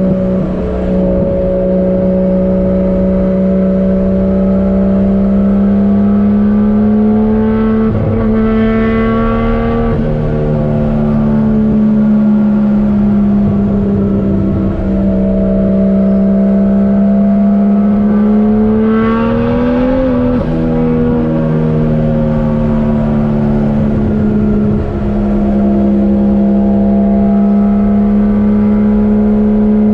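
Turbocharged Toyota 1JZ-GTE VVTi inline-six engine in a Nissan 240SX, heard while driving at a steady drone. Its pitch eases up and down with engine speed and climbs to a peak about two-thirds through before dropping back.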